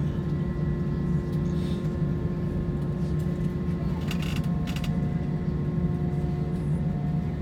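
Airbus A320 cabin noise: a steady, deep drone of the engines and air system with several steady tones over it. A brief rattle comes about four seconds in, and a new steady tone joins just after.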